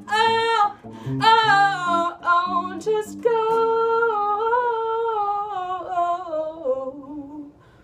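A solo singer with guitar finishing a song: short wordless phrases, then a long held note that wavers and fades out about seven and a half seconds in.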